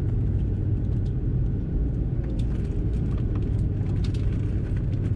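Steady low rumble inside the cabin of an Airbus A330-300 taxiing on the ground, engines at taxi power and the gear rolling over the taxiway, with faint scattered clicks and rattles from the cabin.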